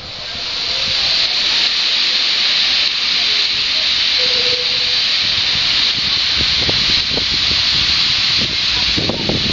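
Steam locomotive letting off steam: a loud, steady hiss that swells up in the first second and holds. Low, irregular knocking and rumble join in during the last few seconds.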